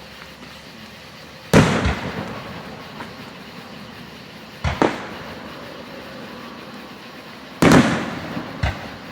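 Aerial firework shells bursting: three loud booms about three seconds apart, each trailing off with a rumble and followed by a smaller pop or bang.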